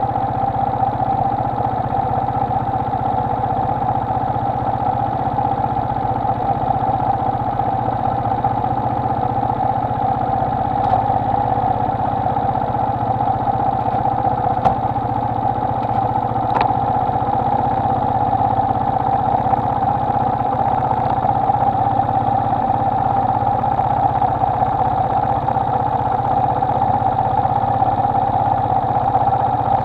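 Honda XLR125R motorcycle's single-cylinder engine running at a steady, unchanging speed.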